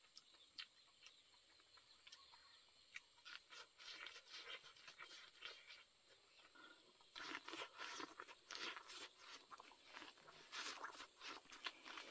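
Biting and chewing kernels off a cooked white corn cob. There are faint, sparse crackles at first, then a dense run of small crackles from about seven seconds in.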